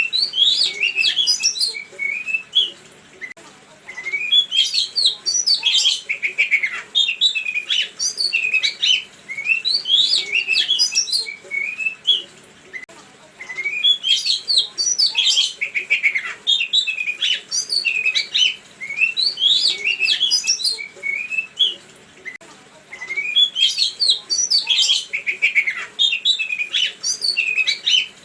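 Songbird song from a bird-song lure recording: bursts of rapid high chirps and quick whistled sweeps, each about three seconds long, separated by short pauses and repeating over and over in the same pattern.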